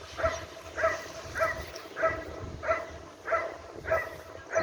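Dog barking steadily at the protection decoy in guard-dog (ZKS) training: about eight short, evenly spaced barks, roughly one and a half a second.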